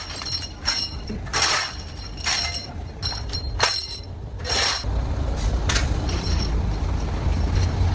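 Metal parts clinking with a ringing tone, about eight sharp strikes in the first five seconds, followed by a low, steady machine rumble.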